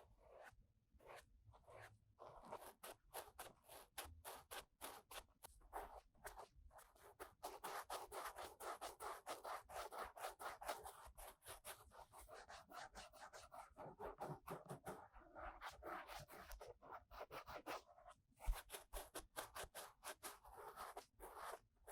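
An ear-cleaning tool scraping and rubbing inside the ear of a 3Dio binaural microphone, in quick soft scratchy strokes, several a second. There is one brief low bump late on.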